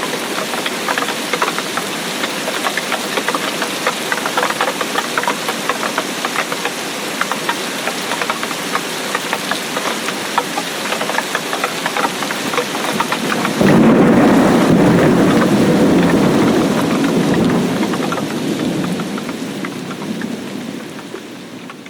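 Steady rain, a dense patter of drops. About halfway through, a loud low rumble of thunder sets in suddenly and slowly dies away.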